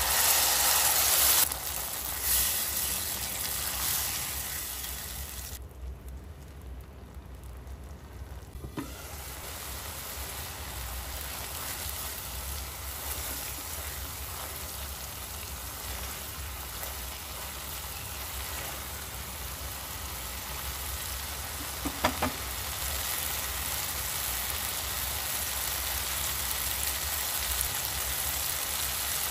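Tomato paste hitting hot oil, butter and frying onion and garlic in a nonstick pan, sizzling loudly at first, then settling to a steady sizzle as it cooks down. There are a couple of sharp taps about three quarters of the way through.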